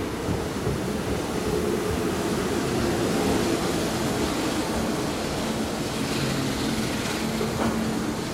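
Kintetsu 21000 series Urban Liner plus express train pulling into the platform close by, out of service. Its wheels roll over the rails with a steady running noise and a low hum.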